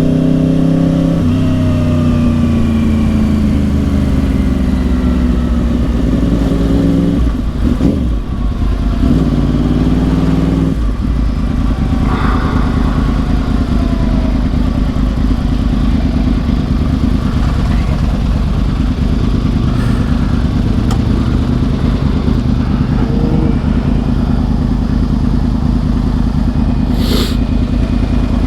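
2010 Yamaha R1 crossplane inline-four with Yoshimura exhaust, heard from the rider's seat. For the first ten seconds or so the engine note drops with each shift as the bike slows, then it holds at a steady low note for the rest.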